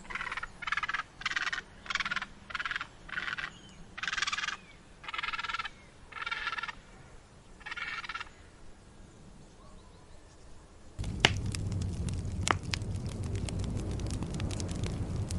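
Egrets calling: a series of about ten short, harsh croaks over the first eight seconds. About eleven seconds in this gives way to a steady rushing noise with scattered sharp crackles.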